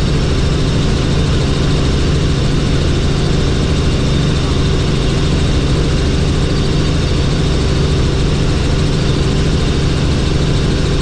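Helicopter in flight: a steady, loud drone of rotor and engine with a low, even hum, unchanging throughout.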